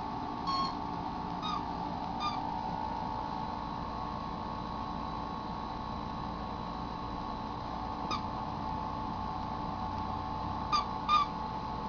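Papillon puppy giving short, high squeaks, a few at a time, while playing with her pacifier chew toy: three in the first couple of seconds, a long pause, then four more near the end.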